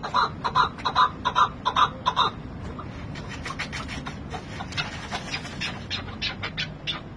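Chukar partridge calling: a run of loud, evenly spaced clucking calls, about two to three a second, that stops about two seconds in, followed by fainter, quicker chattering notes.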